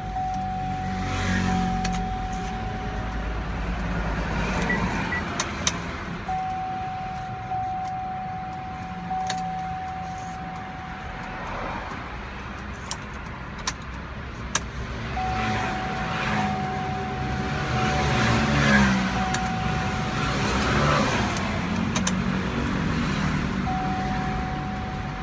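A Chevrolet SSR being cranked over and over without starting, its engine turning but not catching. A steady high tone comes and goes in spells of a few seconds, and there are a few sharp clicks.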